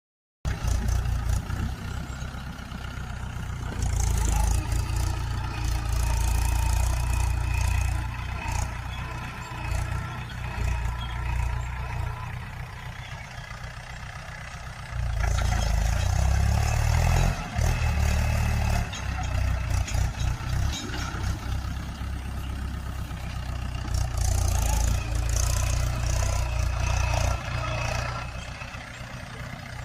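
Tractor engine running while ploughing, its level swelling and falling every few seconds. It starts abruptly just after the beginning.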